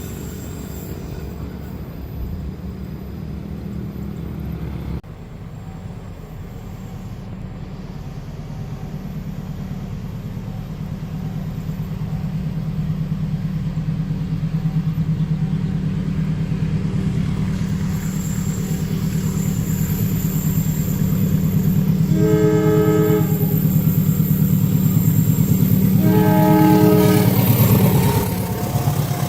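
Train approaching with a low rumble that grows steadily louder, its horn sounding two held blasts a few seconds apart near the end. About five seconds in, the sound changes suddenly.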